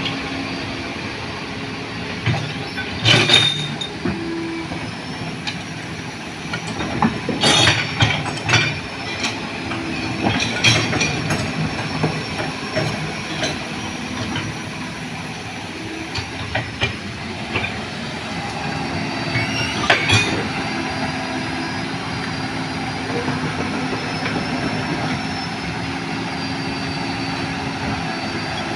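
Heavy diesel equipment running steadily, with sharp metallic clanks and squeals from its steel crawler tracks and linkage several times as it works to push a struggling truck.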